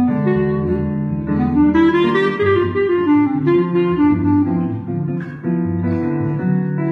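Small band playing a bossa nova tune live, a wind instrument carrying the melody over guitar and bass.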